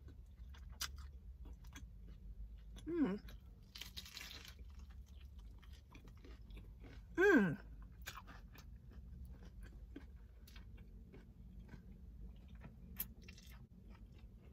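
Close-up mouth sounds of someone chewing a bite of a double-patty turkey burger, with soft crunches and small wet clicks throughout. Twice, about 3 and 7 seconds in, a short hummed "mm" of enjoyment falls in pitch.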